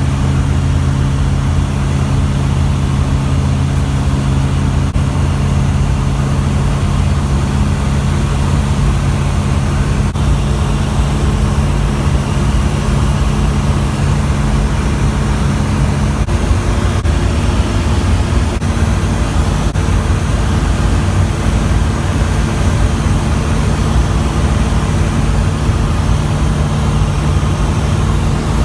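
Zodiac 601 light aircraft's piston engine and propeller droning steadily in flight, a loud low hum with a noisy rush over it. About halfway through the pitch of the hum shifts a little, as the engine speed changes.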